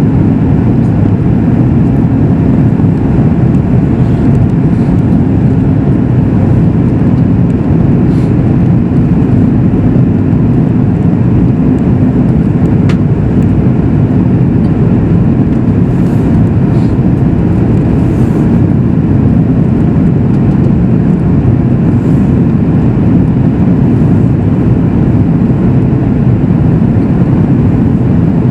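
Steady low roar of engines and airflow heard inside the cabin of a Boeing 737 MAX 8 in flight, its CFM LEAP-1B turbofans running at an even setting.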